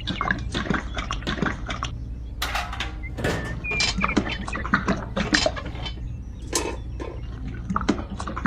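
Many quick small clicks, taps and scrapes of hand work on small parts, with a couple of longer scraping or swishing noises about three seconds in and again near the end, over a steady low hum.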